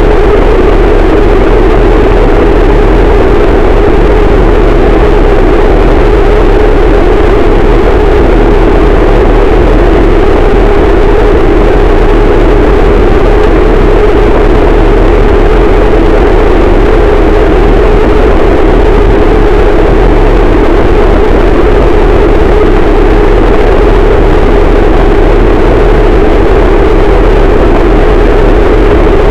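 Harsh noise wall: a dense, static wall of heavily distorted noise at full volume that does not change. It is heaviest in the low middle of the range.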